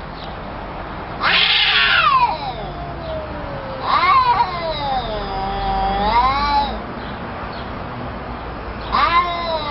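Domestic cats yowling at each other in a fight: drawn-out caterwauls that waver up and down in pitch. A harsh, noisy cry comes about a second in, a long wavering yowl of nearly three seconds starts around four seconds in, and another cry begins near the end.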